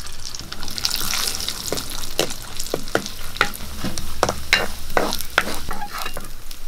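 Cashew nuts sizzling as they fry in a little oil in a metal kadai, stirred with a spatula that clicks and scrapes against the pan, with a run of sharp knocks from about one and a half to five and a half seconds in.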